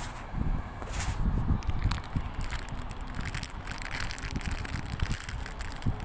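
Footsteps crunching and crackling over ground debris, with irregular low thumps on the microphone. The crackling is densest in the middle.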